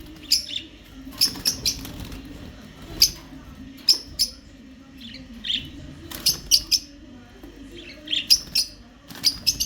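Pet parakeets chirping in short, sharp, high calls, about a dozen scattered through and bunched in three quick runs, with wings fluttering as the birds are disturbed by an attempt to catch one.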